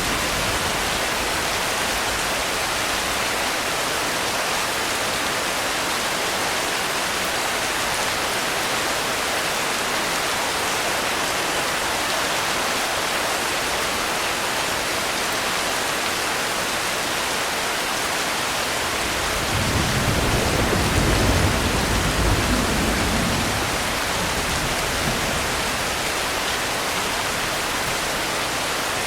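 Steady heavy rain, an even hiss. About two-thirds of the way through, a low rumble swells for a few seconds, then fades back into the rain.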